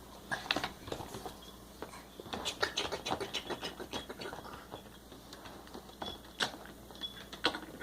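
Pieces of a toy train set being handled and fitted together: irregular small clicks, knocks and scrapes, busiest between about two and four seconds in, with a couple of sharper knocks near the end.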